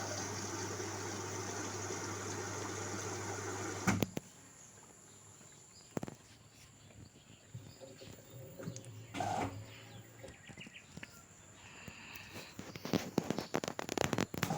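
LG direct-drive front-loading washing machine filling: the water inlet valve hisses steadily over a mains hum, then shuts off with a click about four seconds in. After that come quieter scattered clicks and knocks from the machine, with a burst of rattling clicks near the end.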